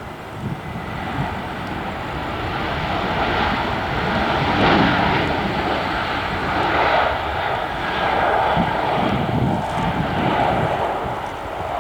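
Airliner's jet engines as the aircraft passes, growing louder over the first four or five seconds and staying loud with a wavering rush.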